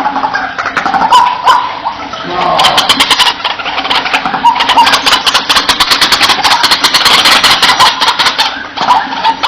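White-breasted waterhen calling: harsh, repeated croaking calls with a fast rattling run of pulses through the middle.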